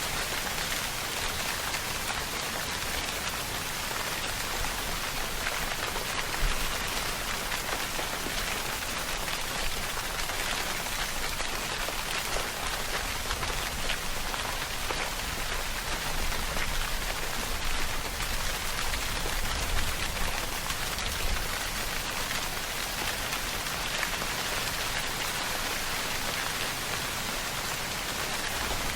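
Steady rainfall, a dense even hiss of drops pattering on a surface, with no change in intensity.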